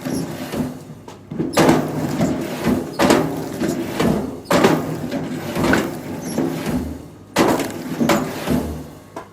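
Heavy wooden knocks, one every second and a half or so, each followed by a clatter that dies away, like logs being dropped or tossed onto a pile.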